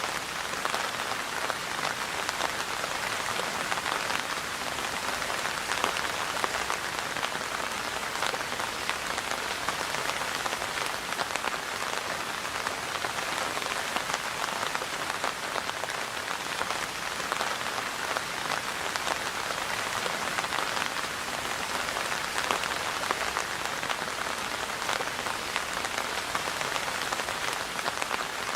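Steady rain falling, a dense even hiss of drops with many small individual drop ticks.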